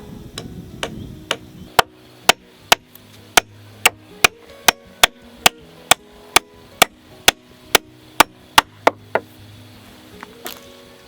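A hand tool striking repeatedly in a steady rhythm, about twenty sharp blows at roughly two a second, stopping near the end. Soft background music runs underneath.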